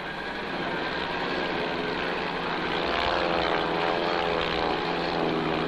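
Propeller airplane flying low overhead, its steady engine drone growing louder over the first few seconds.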